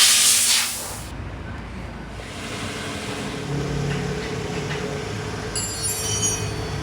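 Water sprayed onto a car body in a leak test simulating heavy rain: a loud hiss of spray in the first second, then a steady rumbling wash of water over the panels.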